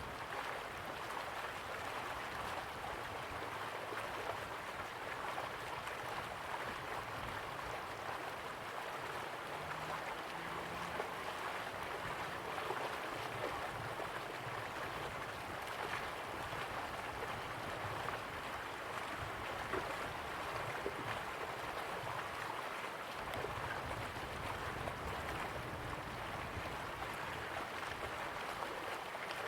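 River water flowing slowly, a steady, even rush with a light flutter.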